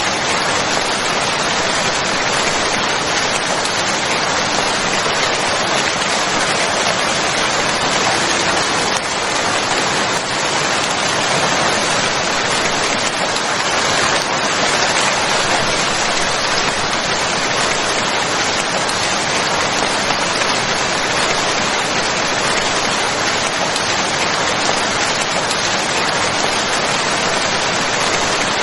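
Steady rain, a dense even hiss of falling rain with no let-up.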